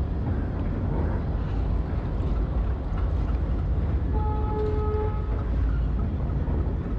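Steady low rumble of a running vehicle, with a horn sounding once for about a second, about four seconds in.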